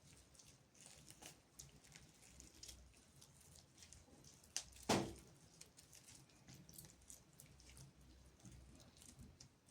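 Knife and hands working raw chicken breast on a cutting board: faint scattered clicks and taps, with one louder knock about five seconds in.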